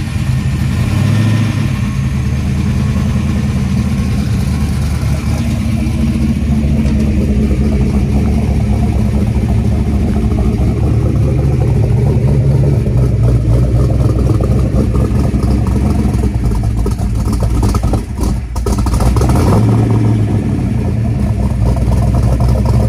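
Fox-body Mustang's small-block Ford V8, newly fitted with Trick Flow cylinder heads and cam, running just after start-up. It runs steadily, dips for a moment about 18 seconds in, then picks up again.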